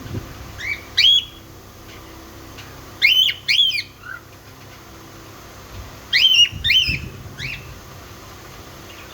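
Small pet parrots giving short, shrill chirping calls in quick clusters of two to four, with pauses of a couple of seconds between clusters.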